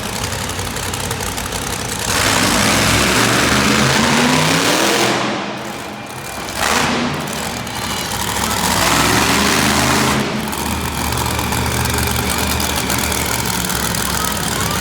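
Skelesaurus monster truck's engine revving hard in two long surges, pitch climbing and falling each time, with lower running between them.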